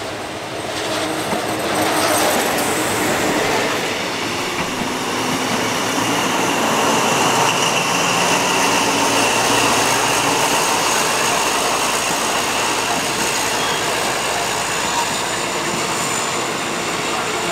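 A passenger train rolling along the station platform: a steady rumble of wheels on rail with a faint high wheel squeal, building over the first couple of seconds and then holding steady.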